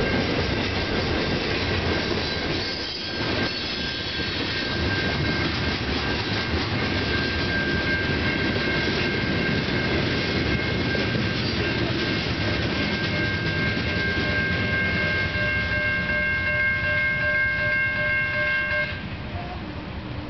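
Freight cars rolling past with a loud rumble and the clack of wheels on rail joints, over steady high-pitched wheel squeal. The rumble and squeal stop suddenly near the end as the last car clears.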